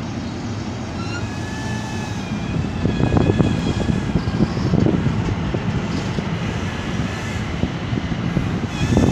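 AMT commuter train of bilevel passenger coaches rolling past: a steady rumble of wheels on the rails, swelling louder a few times, with faint high-pitched wheel squeal in the first seconds.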